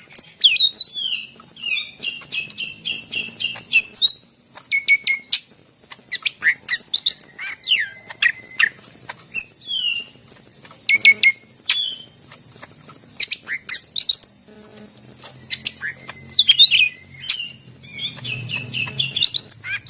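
Cucak ijo (green leafbird) singing a varied, fast song of sharp whistled sweeps, chirps and quick trills of repeated notes, phrase after phrase with short pauses, over a steady high hiss.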